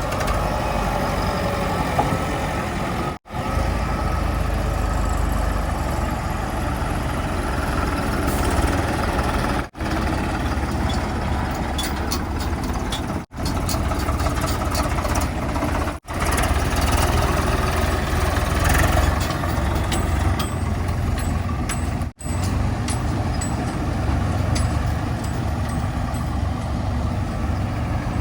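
Heavy diesel engines of earth-moving vehicles running steadily, with the sound cut off abruptly and restarting about five times as short clips follow one another.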